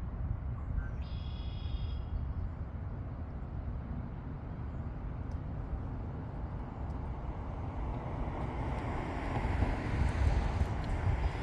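Steady low outdoor rumble, like wind or distant traffic, that swells over the last few seconds. A brief high-pitched call sounds about a second in.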